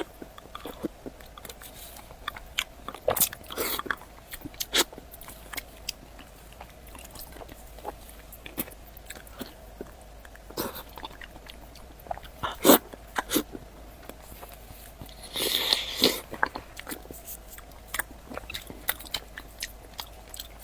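Close-miked eating: biting and chewing soft, fatty food, with scattered wet mouth clicks and smacks and a longer, louder wet sound about fifteen seconds in.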